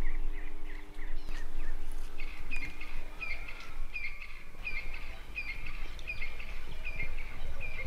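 Wild birds calling, one repeating a short high call about every 0.7 seconds from about two seconds in, over a low outdoor rumble. A steady low hum underneath stops about four seconds in.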